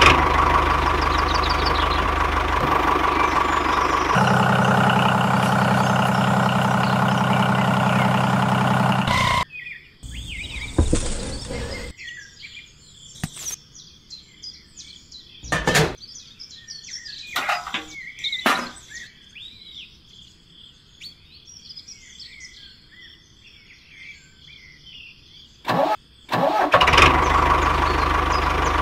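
A small motor runs steadily with an unchanging pitch, shifting its tone once about four seconds in, then stops at around nine and a half seconds. Birds chirp over a few sharp clicks while it is off, and the motor starts running again near the end.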